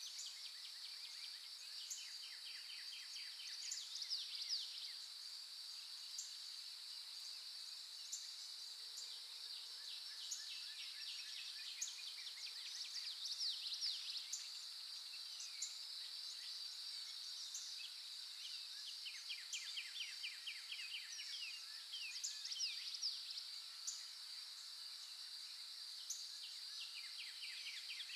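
A steady, high insect drone with birds calling over it: quick rattling trills and short chirps that come and go every few seconds.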